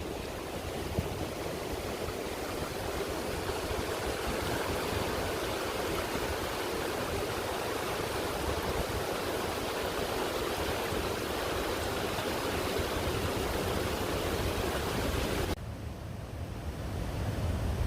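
Fast-flowing floodwater rushing steadily. Near the end it cuts abruptly to a duller low rumble.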